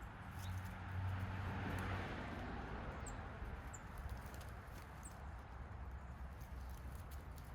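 A few short, high bird chirps about three, four and five seconds in, over a low rumble that swells and fades in the first two seconds.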